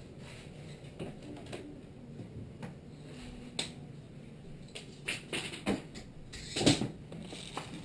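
G&G GR16 R4 airsoft rifle firing single shots at irregular intervals: about nine sharp snaps, the loudest a cluster near the end.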